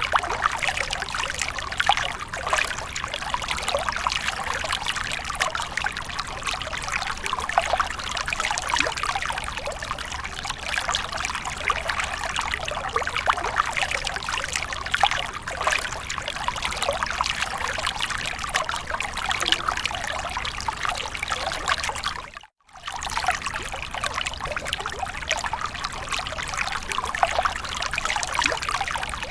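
Water splashing and trickling continuously, a dense patter of small splashes. It cuts out for a split second about three quarters of the way through, then resumes.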